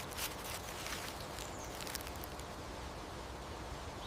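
European hedgehog rustling through leaf litter as it moves and forages, with scattered small clicks and crackles.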